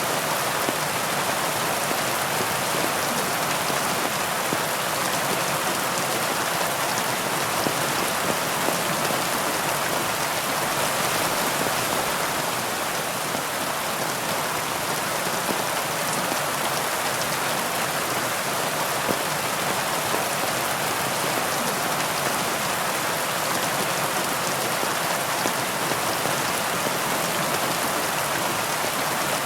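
Heavy rain falling steadily, an even hiss of many drops with the odd sharper drop tick.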